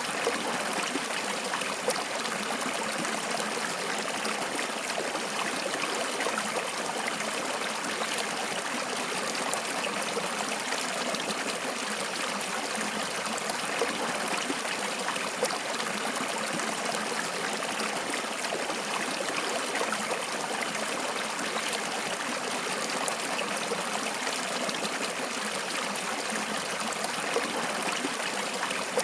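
Water flowing steadily in a stream, an even rushing and trickling with small splashes and gurgles.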